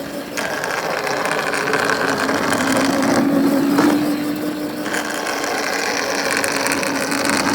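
Rollplay 12V Nighthawk electric ride-on running at speed: a steady motor whine that rises slightly in pitch as it picks up speed and then holds, over the rattle of its drive and wheels.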